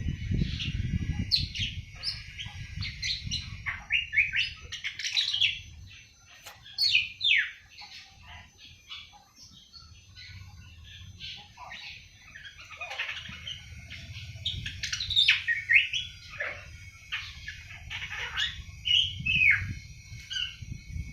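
Young awar-awar bird, about seven months old, twittering in quick, high chirps and short warbled notes: its early 'ngriwik' song, the sign of a young bird starting to sing. A low rumble runs under the chirping at the start and again in the second half.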